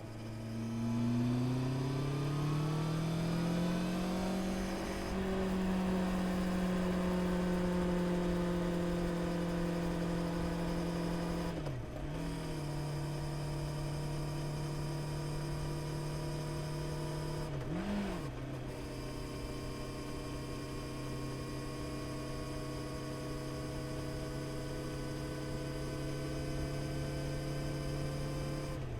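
Honda CB650R inline-four motorcycle engine accelerating, its pitch rising over the first few seconds, then cruising at steady revs. The note breaks briefly twice, about twelve and eighteen seconds in, as the throttle is shut and reopened, like quick gear changes.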